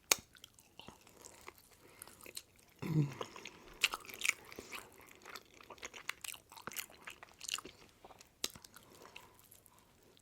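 Close-miked chewing and biting of food, with crisp crunching clicks and wet mouth sounds throughout. A short hum, falling in pitch, comes about three seconds in.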